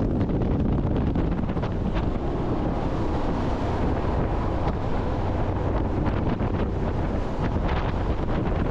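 Jet boat running at speed, its engine and the rushing water buried under heavy wind buffeting on the microphone, steady throughout with scattered brief gusts.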